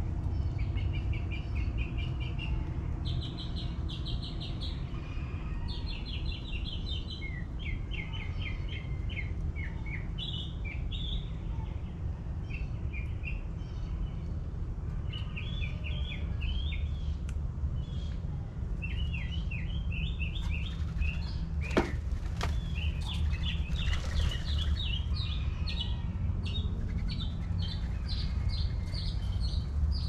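Backyard birds chirping in quick runs of repeated high notes, over a steady low rumble. About two-thirds of the way in, one call slides steeply down in pitch, followed by a brief rushing sound.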